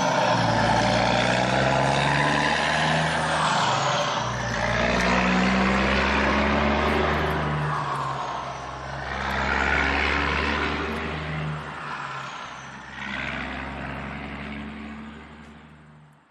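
Heavy vehicle engine, like a truck or JCB diesel, running and revving up and down in slow waves, then fading out near the end.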